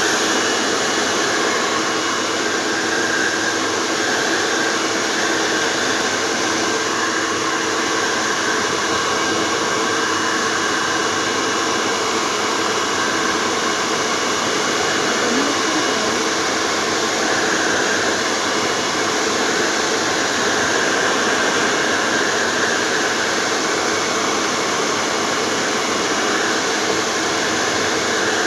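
Hand-held electric hair dryer running steadily: a constant rush of blown air over a motor and fan hum, with faint steady whine tones.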